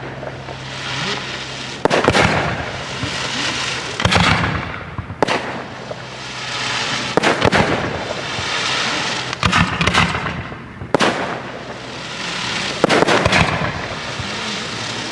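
Aerial fireworks display: shells bursting with sharp bangs every second or two, with crackling between the bangs.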